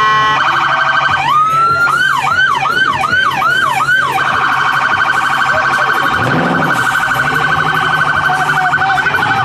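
Electronic police siren cycling through its tones: a short steady blast, then a yelp rising and falling about twice a second for about three seconds, then a rapid warbling tone. A brief low rise and fall comes about six seconds in.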